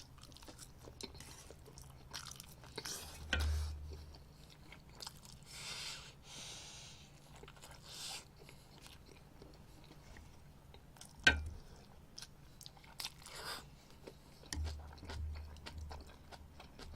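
Close-up, faint sounds of a person chewing and eating eggs with rice, soft and intermittent, with scattered small clicks and one sharper click about 11 seconds in.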